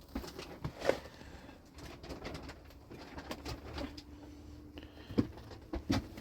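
Pigeons cooing, one low call held for about a second near the middle, with scattered light clicks and knocks.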